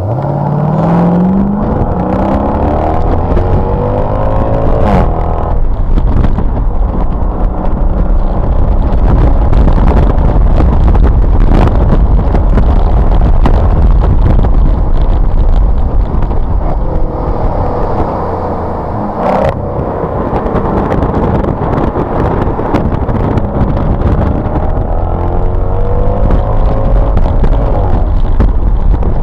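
Mercedes-Benz SLK's engine accelerating hard on track, its pitch climbing and breaking at upshifts about five seconds in and again near the twenty-second mark. Heavy low wind and road rumble runs under it.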